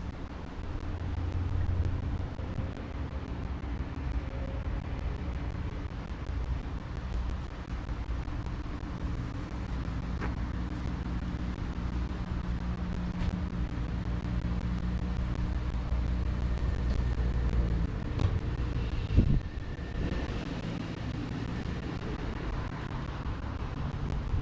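Low, steady hum of a motor vehicle engine that swells slightly, then eases off, with a brief knock near the end.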